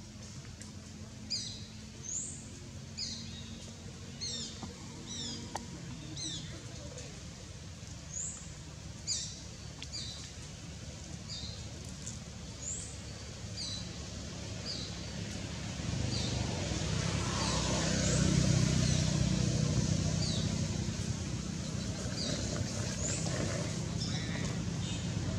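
Small bird chirping, short high notes repeated about once a second. In the second half a low rumble builds up, loudest a little past the middle, and then stays on.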